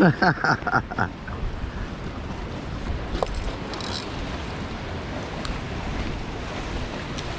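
Wind gusting over the microphone and choppy water washing below, a steady rough rushing noise, with a few faint clicks.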